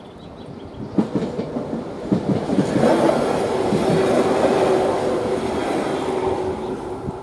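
SNCB electric multiple unit passing over a level crossing. Its wheels clack over rail joints, the first sharp clacks about a second in, then comes a loud rumble with a steady tone under it as the cars go by, fading near the end.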